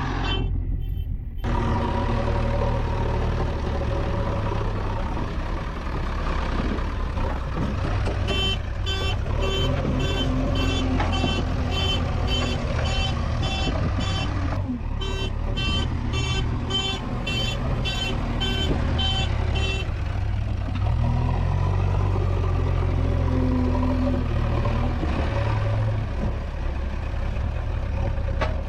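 JCB 3DX backhoe loader's diesel engine running steadily at working revs, with a reversing alarm beeping quickly and evenly through the middle and stopping about two-thirds of the way through.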